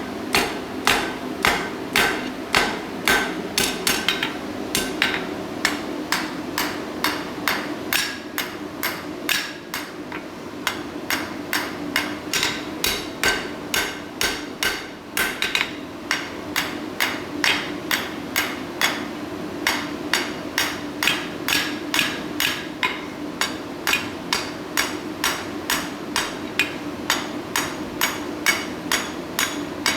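Hand hammer striking a hot steel bar on an anvil at about two blows a second, with the anvil ringing steadily between blows, upsetting the bar by pushing its shoulders in to thicken it. The blows let up briefly about a third of the way in.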